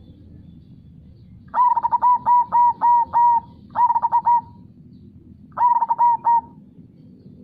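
Zebra dove (perkutut) cooing in three phrases of repeated notes: a run of about six notes, then two shorter bursts. A low steady rush of flowing river water runs underneath.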